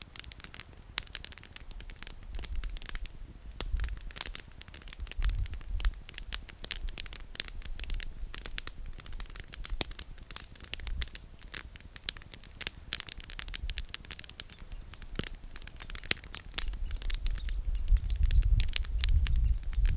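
Wood campfire crackling, with dense, irregular pops and snaps of burning firewood. A low rumble swells briefly about five seconds in and grows louder over the last few seconds.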